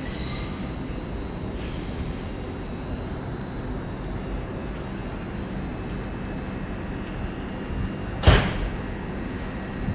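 Steady rumble of trains in a large railway station, with one sharp loud bang about eight seconds in.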